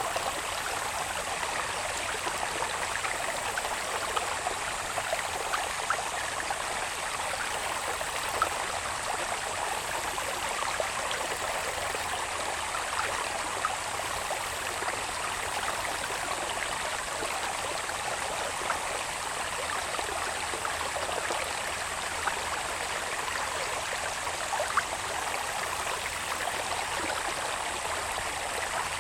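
Small irrigation channel of water running down from the hills, babbling and trickling steadily with little splashing clicks. A thin, steady high tone of insects calling from the grass sits over it.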